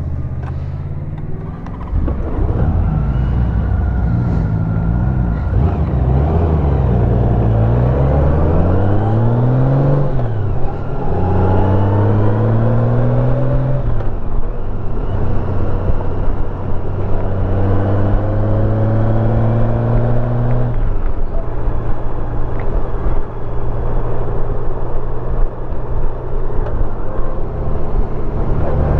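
2021 Honda Gold Wing Tour's flat-six engine pulling hard, rising in pitch and dropping back several times as it shifts up through the gears, then running at a steady cruise with one more drop in pitch about two-thirds of the way through.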